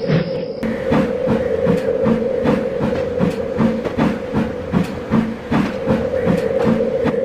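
Steam train running at speed, with a steady rhythmic beat of about three strokes a second over a constant running noise.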